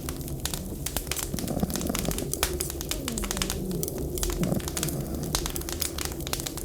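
Wood fire crackling with frequent sharp pops, over winter wind moaning in low tones that slowly rise and fall.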